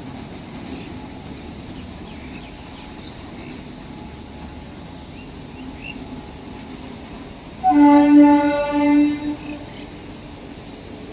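Train horn sounding two short blasts about three-quarters of the way in, over the steady rumble of a running train.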